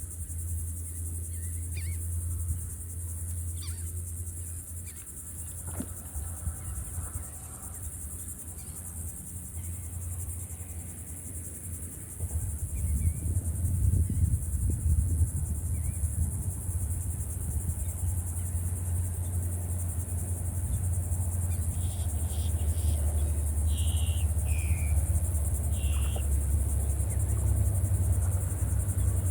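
Insects chirring steadily at a high pitch over a low rumble that grows louder about halfway through, with a few short chirps near the end.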